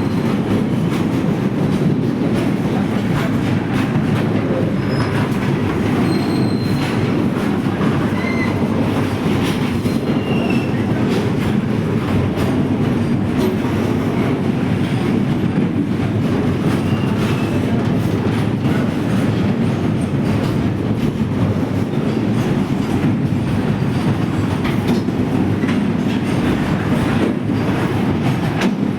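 Train running steadily on the track: a continuous heavy rumble of wheels and carriages, with frequent clicks and a few brief, faint high wheel squeals.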